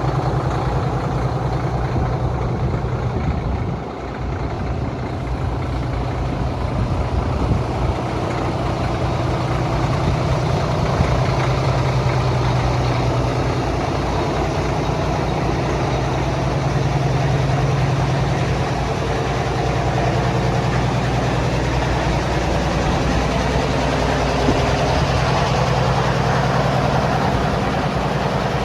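Heavy diesel engine of an Oshkosh snow blower truck idling steadily, with a brief drop in level about four seconds in.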